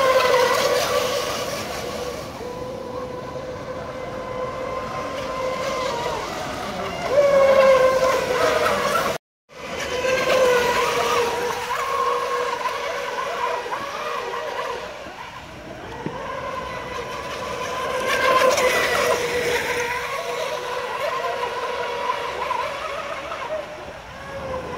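Electric motors of small radio-controlled model boats whining steadily on the water, the pitch rising and falling now and then as the throttle changes. The sound cuts out completely for a moment about nine seconds in.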